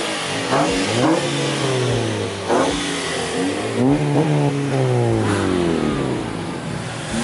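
Car engines revving, rising and falling in pitch, with two clear rev swells about a second in and again about four seconds in.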